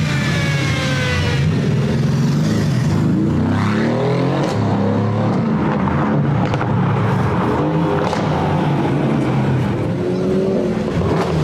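Sports car engines with loud aftermarket exhausts revving, the pitch climbing and dropping again and again; near the start one engine's note falls away as a car goes by.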